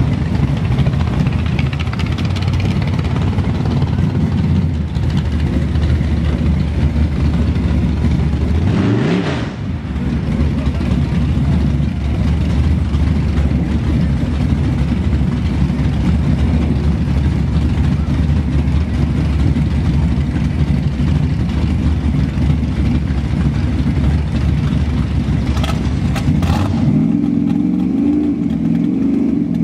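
Drag-racing Chevrolet Nova's engine running loud and steady at the starting line. About nine seconds in there is one brief rise in pitch, and the note changes near the end.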